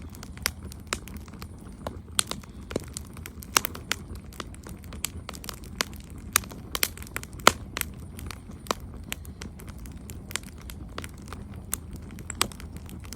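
Wood campfire crackling: irregular sharp pops and snaps, often several a second, over a low steady rumble.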